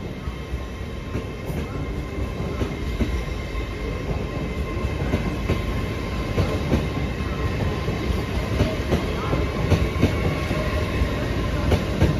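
LNER Class 801 Azuma electric train moving through the station: a steady rumble of wheels on rail, with a faint steady whine and scattered clicks of the wheels over rail joints.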